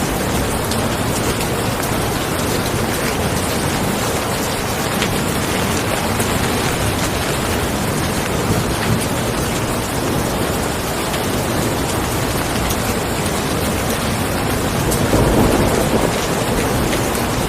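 Steady rain falling, an even hiss, with a brief low swell about fifteen seconds in.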